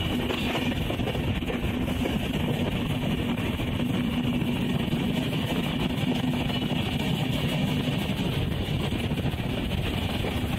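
The Gomti Express passenger train running at speed, a steady rumble and rush of the moving coach with no distinct events, while background music with guitar plays over it.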